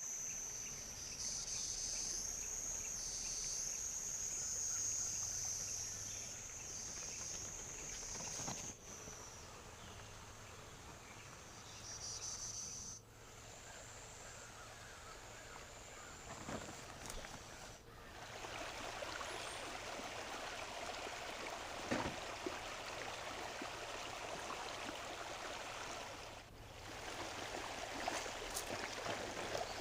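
Rainforest ambience: a high-pitched, wavering chorus of insects for the first several seconds, then, after a few abrupt cuts, the steady rush of a flowing stream, with an occasional sharp click.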